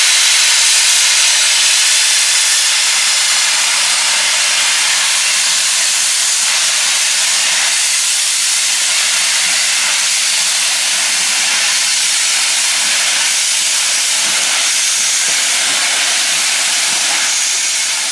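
A loud, steady hiss that fades out near the end.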